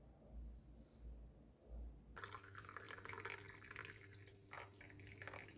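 Faint sound of liquid running or pouring, with small splashes and drips, starting about two seconds in over a low steady hum.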